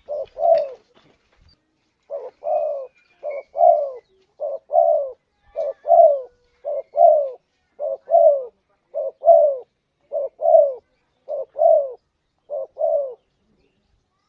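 Spotted dove (tekukur) cooing: a two-note phrase, a short note then a longer falling one, repeated about once a second after a short pause near the start.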